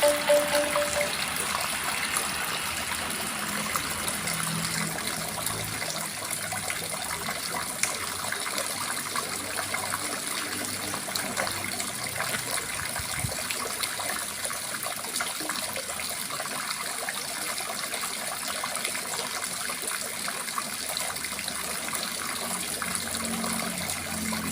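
Water pouring steadily from a pancuran spout, an even splashing rush. A last rindik note rings out and fades in the first second.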